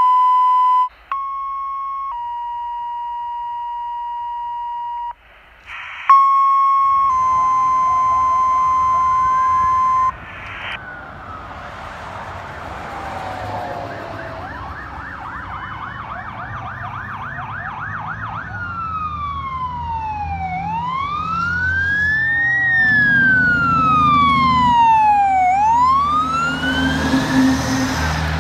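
Fire dispatch alert tones: long steady beeps that step between pitches, in two sets. Then fire apparatus come up with electronic sirens, first a fast yelp, then a slow rising and falling wail, over diesel engine rumble that grows louder.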